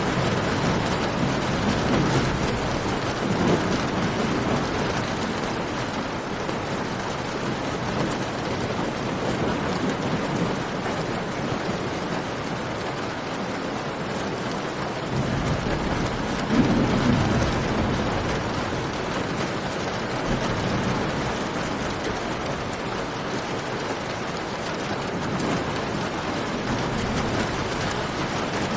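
Steady, even rain, with low swells in level about a second in and again a little past the middle.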